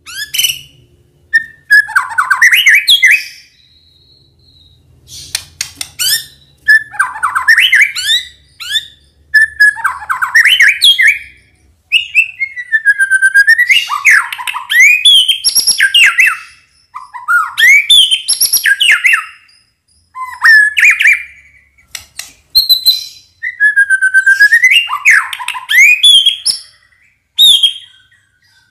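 White-rumped shama (murai batu) singing in full song, loud phrases of one to two seconds separated by short pauses. Each phrase mixes clear whistles that swoop down and up with quick, high chattering notes.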